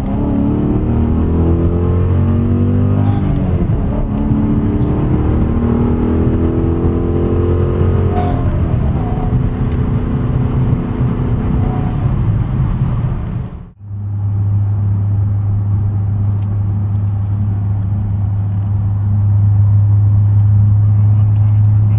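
2010 Dodge Challenger running through an MBRP stainless-steel exhaust with an oval resonator and fully welded mufflers. It is revved up and down several times. After a sudden break about fourteen seconds in, it runs at a steady pitch and gets a little louder near the end.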